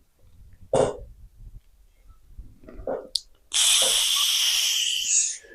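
A man breathing hard under effort: a short sharp exhale about a second in, then a long, loud, forceful exhale lasting about two seconds near the end.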